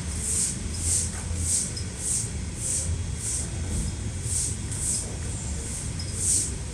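Steady heavy rain with a low rumble under it, and a faint high-pitched pulse repeating about twice a second.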